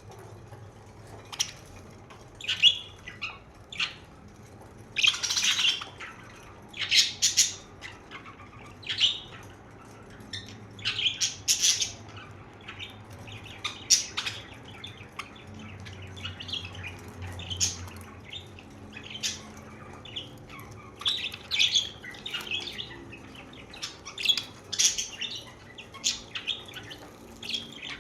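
Budgerigars chirping and squawking: short, scattered calls, some harsh, coming irregularly over a low steady hum.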